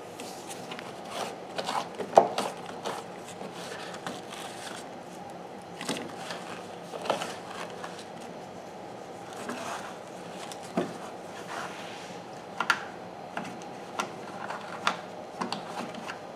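Irregular scraping, clicking and knocking of hand cleaning under a refrigerator, over a steady background hum. The loudest knock comes about two seconds in.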